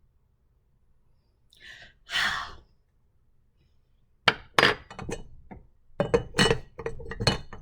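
A short hiss, then a quick run of clinks and knocks of hard objects, coming in clusters over the last three seconds or so.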